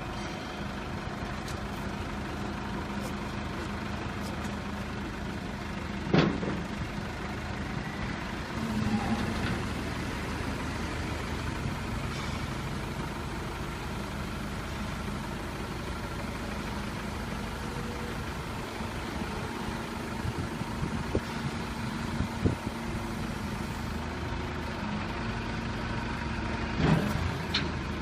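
Wrecker truck's engine idling steadily, with a sharp knock about six seconds in and another near the end.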